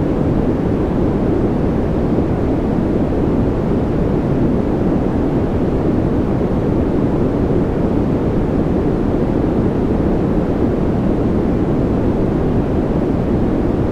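Steady sleep-aid noise, a constant hiss with no pitch or rhythm. It is weighted toward the low end, deep rather than bright, with little high treble.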